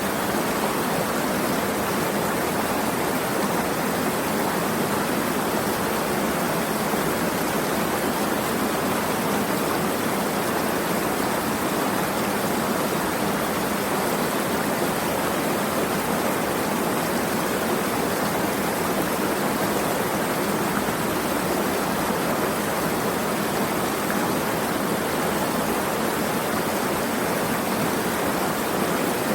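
Steady, unchanging rush of flowing water, an even hiss with no single drops or splashes standing out.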